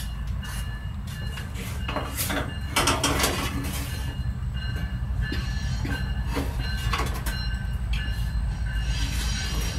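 Train passing with a steady low rumble, and a few clinks of metal tongs against a tray and the smoker grate in the first few seconds.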